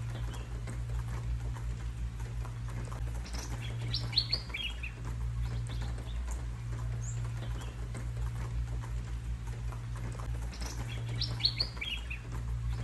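Small birds chirping: a quick cluster of high, short calls about four seconds in and again about eleven seconds in, with scattered single chirps. A steady low hum and a faint even hiss run underneath.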